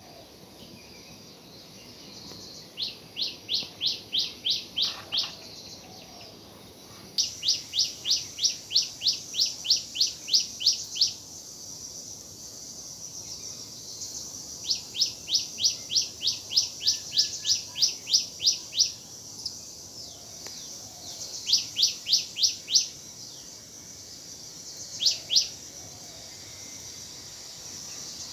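A bird calling in runs of sharp, rapidly repeated high notes, about four a second, in five bouts: three long runs of several seconds each and two short ones near the end. A steady high hiss, like insects, sits underneath.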